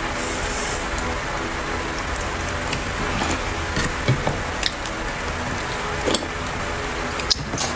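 Seafood being handled and eaten: a handful of sharp clicks and taps spread through, over a steady hiss.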